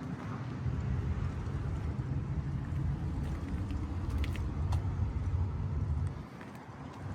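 Scania P113E 360 truck's 11-litre straight-six diesel engine running with a steady low rumble, which drops in level about six seconds in.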